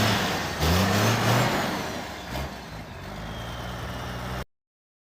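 Cummins diesel truck engine with a semi-truck HX40 turbocharger free-revving. The engine revs up and back down about half a second in, gives a short blip near two and a half seconds, then settles to idle, with a faint high whistle falling in pitch as the revs drop. The sound cuts off suddenly near the end.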